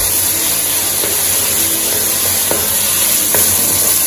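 Sliced onion, scallion and thyme frying in a large aluminium pot, a steady sizzle, with a wooden spoon stirring them and giving a few light scrapes against the pot.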